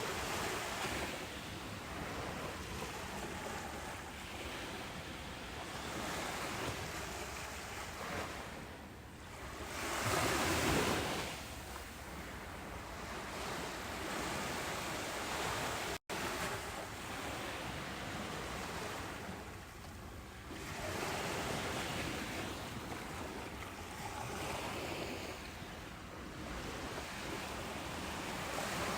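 Ocean surf breaking on a beach: a steady wash of noise that swells and ebbs with each wave, the largest wave about a third of the way in. Halfway through, the sound drops out to silence for a split second.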